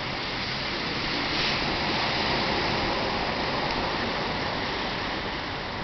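North Atlantic surf washing onto the shore: a steady rushing of water that swells a little about a second and a half in.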